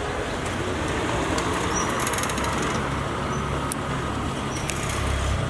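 Street traffic noise: a steady wash of road noise, with a vehicle engine's low hum growing in about halfway through.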